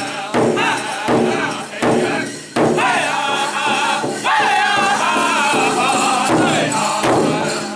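Powwow drum group singing together in high, wavering voices while striking a large shared drum in a steady beat of about two strokes a second.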